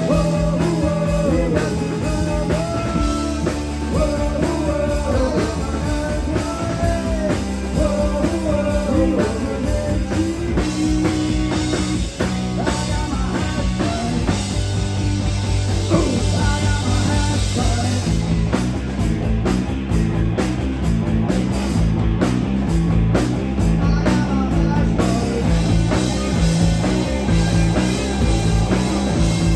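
Live rock band playing a song: a singer's voice over guitar, bass and drums for roughly the first ten seconds, after which the instruments carry on without vocals.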